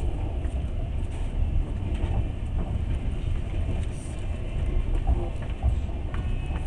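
Passenger train running along the track, heard from inside the carriage: a steady low rumble of wheels on rails.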